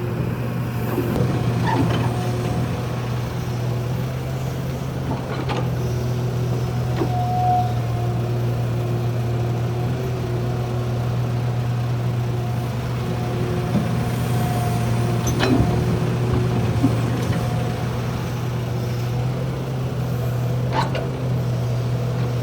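Heavy diesel earthmoving machinery running steadily at a worksite, a constant low engine hum with faint whining tones, broken a few times by sharp knocks.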